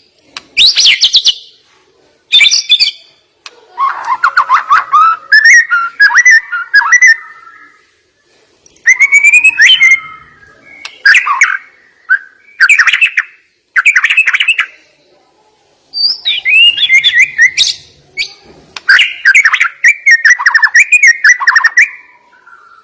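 White-rumped shama (murai batu) singing a loud, varied song of mimicked phrases: rapid whistles, trills and sharp notes in bursts of a second or two, each followed by a short pause.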